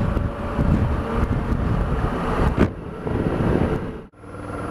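Motorcycle engine running while riding, with wind rushing over the helmet microphone. The sound cuts off abruptly about four seconds in, and a steadier, quieter engine hum follows.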